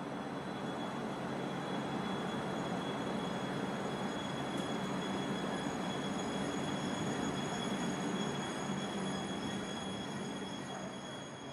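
ÖBB passenger coaches rolling past along a station platform: a steady rumble of wheels on the rails with a faint high whine, growing louder and then fading as the last coach goes by near the end.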